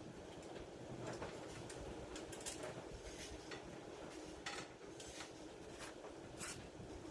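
Light, irregular metallic clinks, rattles and scrapes from small parts and hand tools being handled during truck reassembly, over a faint steady background hum.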